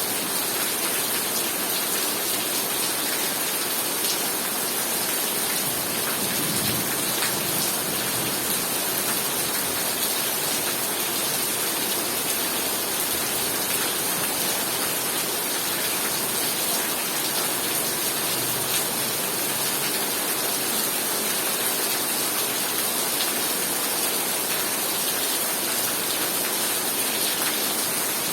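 Heavy rain pouring steadily, a dense, even hiss of drops hitting surfaces.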